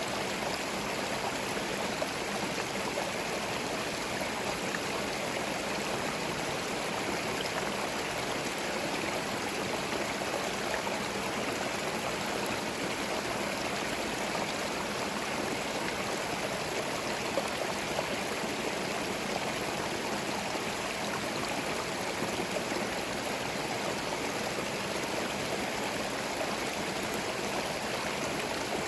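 A small forest stream flowing steadily over stones, a constant babbling and gurgling of water.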